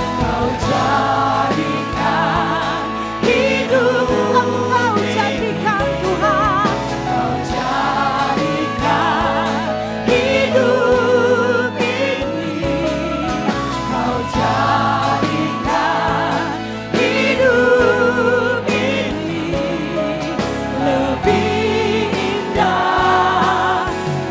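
Live Christian praise and worship music: singers holding long notes with vibrato over a steady instrumental accompaniment with low sustained bass notes that change every second or two.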